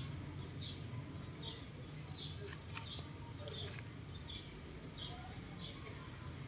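A small bird chirping over and over: short, high chirps about once every second or less, over a steady low background hum. There is one sharp click a little under three seconds in.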